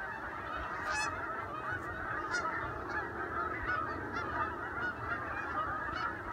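A large flock of geese honking continuously, many calls overlapping into a dense chorus.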